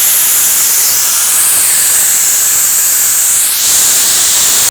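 Loud, steady hiss of pressurized CO2 venting through the release valve of a pressurized lager fermenter as it is opened to release the pressure.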